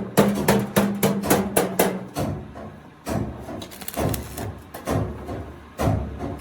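Hammer striking sheet steel from an oil drum: a quick run of blows, about four a second for two seconds, then after a short pause four slower strikes about a second apart. A steady hum runs under the first run of blows.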